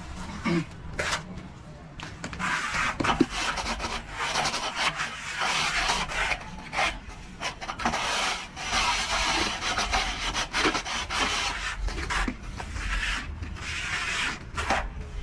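Plastering tool scraping and smoothing plaster across a surface in repeated strokes, each a second or two long.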